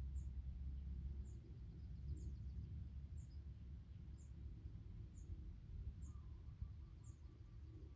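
Faint outdoor ambience: a low rumble, with a short high chirp repeating about once a second.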